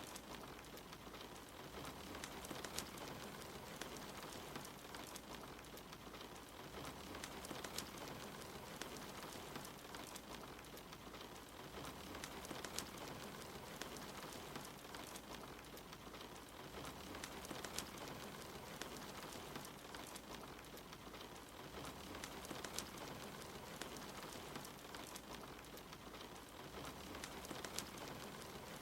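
Steady rain patter mixed with the scattered pops and crackles of a wood fire in a fireplace.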